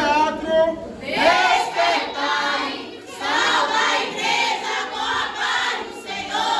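A group of voices singing together like a choir, in phrases broken by short pauses about one and three seconds in.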